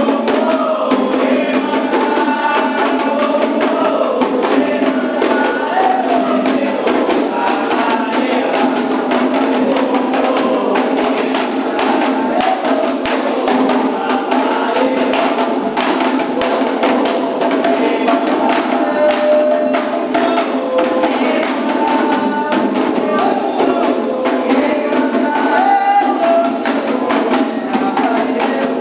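Candomblé ritual music: a steady rhythm of atabaque hand drums and a struck bell, with group singing over it.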